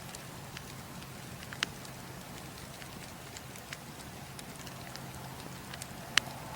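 Campfire crackling: a steady hiss and low rumble of burning wood with scattered sharp pops, the loudest about a second and a half in and another near the end.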